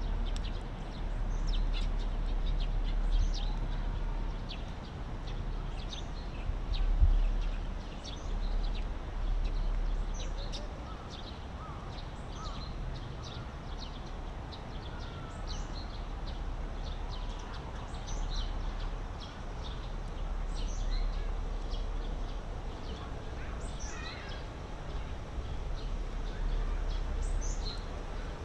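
Small birds chirping, many short high calls scattered throughout, over a steady low rumble. A dull bump sounds about seven seconds in.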